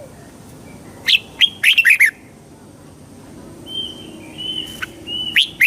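Red-whiskered bulbul singing: a burst of quick, loud chirping notes about a second in, softer short whistled notes in the middle, and another loud burst near the end.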